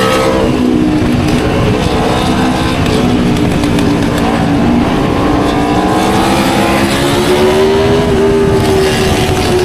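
Aprilia RSV4 Factory's V4 engine running hard, its pitch dipping early on, then rising and falling gently as the revs change.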